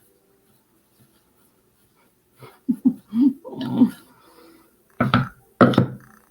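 A dog vocalising: a few short whining or grumbling calls a few seconds in, then two loud barks near the end.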